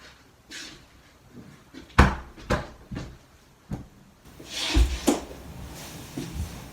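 A series of sharp knocks and bumps, with a short rustle near the middle, as household things are handled in a small room.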